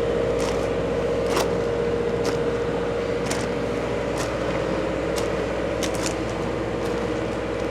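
Footsteps crunching on gravel ballast, about one or two steps a second, over a steady wavering hum.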